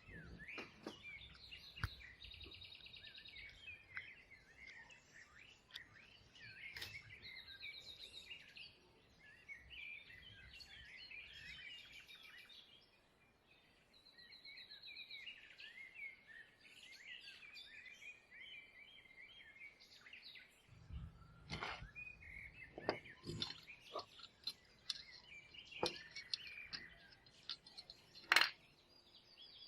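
Small birds chirping and singing in quick trills and warbles, with scattered sharp clicks and taps, the loudest near the end.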